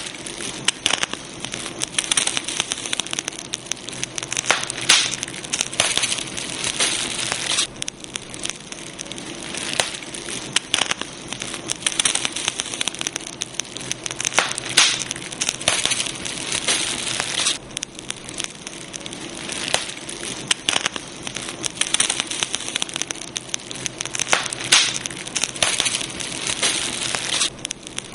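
Wood campfire crackling and popping steadily, a constant stream of sharp snaps over a soft hiss, with denser, louder flurries of pops every few seconds.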